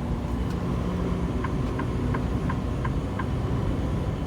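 Heavy truck's engine and road noise, a steady low rumble, with a run of six quick, evenly spaced ticks in the middle.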